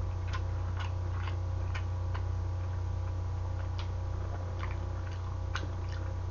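Chewing braised pig's trotter meat: soft, irregular mouth clicks and smacks, about two or three a second, over a steady low hum.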